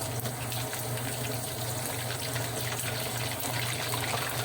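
Water running steadily over a steady low hum. It cuts off suddenly at the end.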